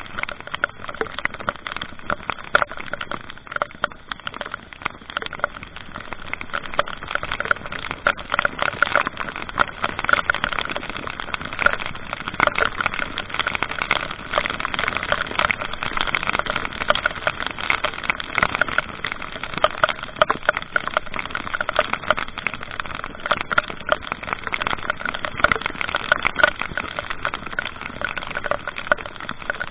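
Rain and wind noise on a moving vehicle's camera microphone: a steady rushing hiss with a dense, irregular crackle of raindrop hits.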